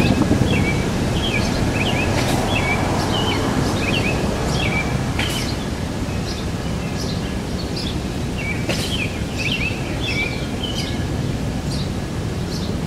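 Outdoor ambience: a steady low noise haze with a songbird chirping in short repeated phrases, and a few sharp clicks.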